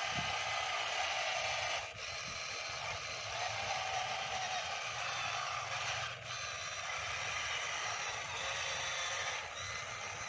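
Radio-controlled model vehicle's electric motor and gears whirring steadily as it runs, dipping briefly about two seconds in and again about six seconds in.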